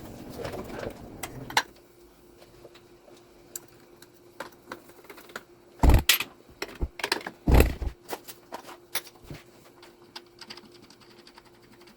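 Scattered clicks and light knocks of tools and engine parts being handled, with two louder knocks about six and seven and a half seconds in, over a faint steady hum.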